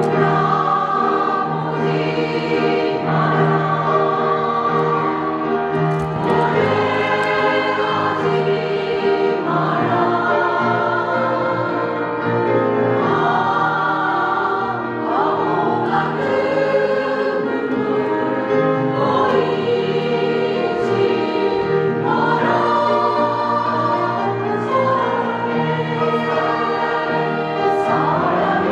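Women's vocal ensemble singing in harmony, with notes held for a second or two each.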